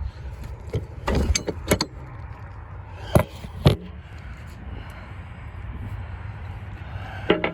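Box truck door hardware being handled: a series of short metallic clicks and clanks over a steady low rumble, the two loudest a little after three seconds in.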